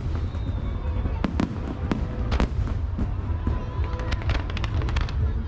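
Aerial fireworks bursting: about a dozen sharp bangs and cracks at irregular intervals over a steady low rumble.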